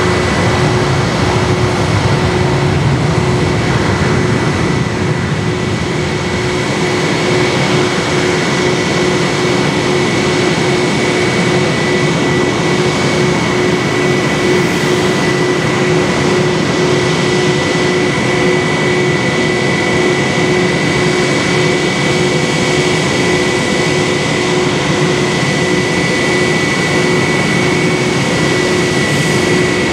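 Lufthansa Airbus A321-200's jet engines running at idle: a steady rushing noise with a constant high whine.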